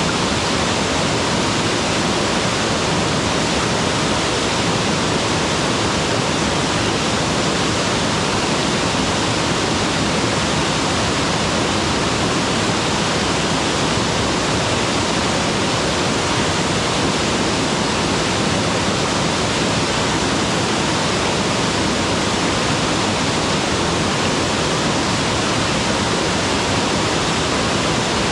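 Waterfall pouring in a steady, dense rush of falling water, with no change in level.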